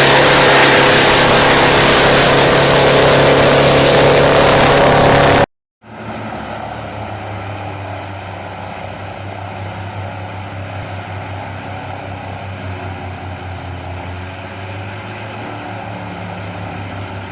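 Wood chipper running loud under load, a dense grinding roar over a steady engine tone, cut off abruptly about five seconds in. After a brief silence, a quieter machine runs steadily with a low engine hum.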